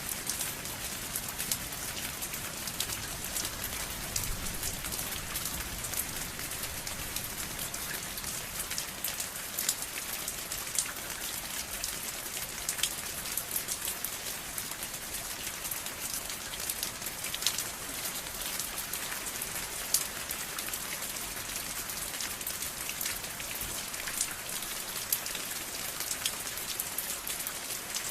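Steady rain falling on a surface, a continuous hiss with many separate drops ticking sharply throughout.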